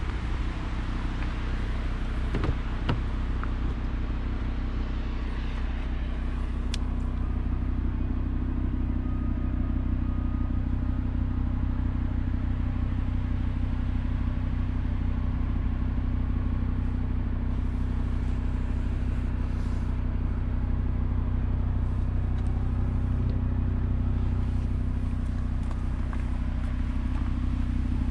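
Audi RS3's 2.5-litre turbocharged five-cylinder engine idling steadily, with a couple of sharp clicks about two to three seconds in.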